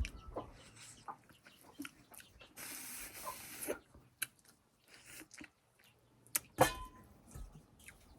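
Close-up eating sounds of buffalo-foot soup and rice: chewing with wet mouth clicks and smacks. A slurp of soup comes about three seconds in, and a loud smack cluster comes a little after six seconds.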